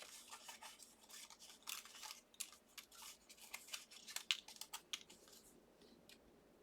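Faint, quick scratching and ticking of card stock being handled, as small die-cut pieces are poked out of the cut sheet.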